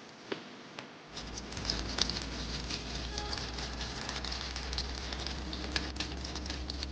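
Rain pattering on a surface: dense, irregular ticks over a steady low rumble that sets in about a second in, after a few sharp clicks.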